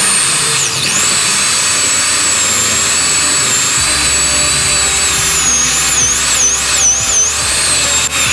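Electric power tool motor running with a steady high-pitched whine that wavers and dips in pitch several times in the second half.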